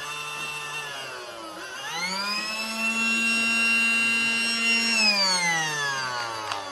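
Casdon Dyson toy cordless vacuum's small battery motor whining. Its pitch rises about two seconds in, holds steady, then slides down from about five seconds as the motor winds down.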